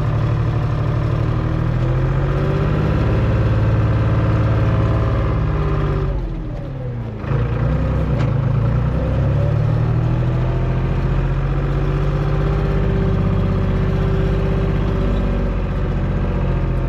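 Tractor engine running steadily. About six seconds in its pitch and level drop sharply, then it picks back up within a second and runs on.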